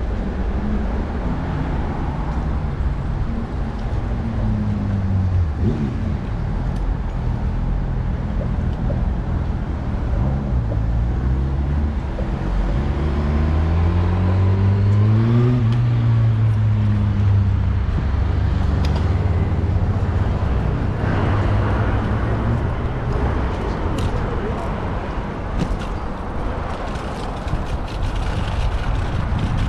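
Road traffic heard from a bicycle in city streets: a motor vehicle engine close by, its pitch rising to a peak about halfway through and then falling away, over a steady low rumble.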